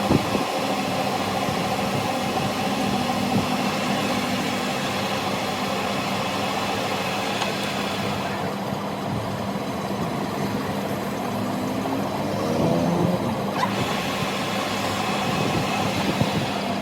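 A machine running steadily with a constant hum, its pitch shifting briefly about twelve seconds in.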